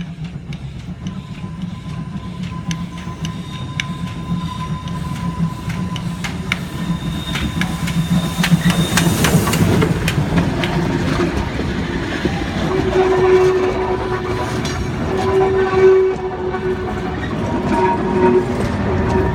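Museum train passing by, its wheels clicking over the rail joints and growing steadily louder as it comes closer. Over the second half a steady tone sounds on top of the running noise.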